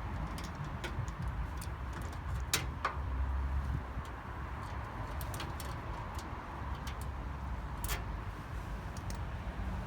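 Scattered small clicks and ticks of tools and screws being worked on a microwave's casing, with two sharper clicks, one about two and a half seconds in and one near eight seconds, over a steady low rumble.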